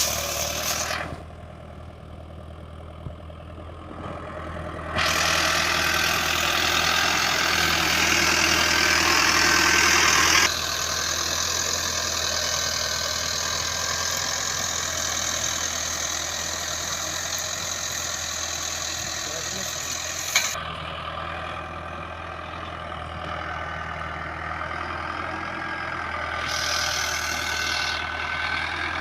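Mahindra Arjun 555 tractor's diesel engine running steadily. The sound changes abruptly several times: louder and hissier from about 5 to 20 seconds in, and quieter after that.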